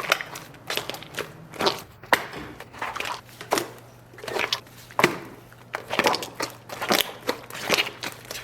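Slime being squeezed and pressed by hand, giving wet crackles and pops of trapped air in irregular strokes about once or twice a second.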